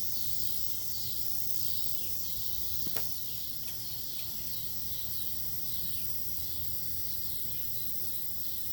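Steady background chorus of insects chirping, pulsing about twice a second, with a single faint click about three seconds in.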